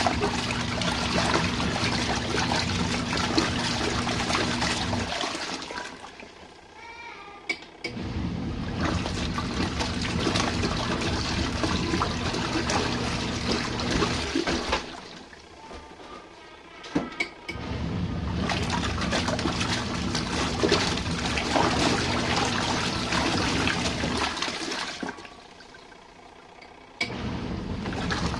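Compact RV washing machine in its rinse cycle: the motor hums and the water churns in runs of several seconds, stopping for a few seconds twice in between.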